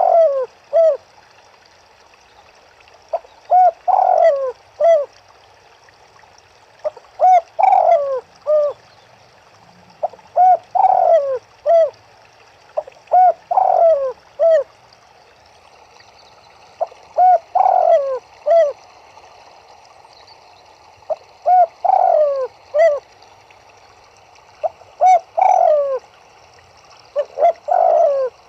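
Turtledoves cooing: short phrases of a few low coos, the last notes falling in pitch, repeated about every three to four seconds over a faint steady hiss.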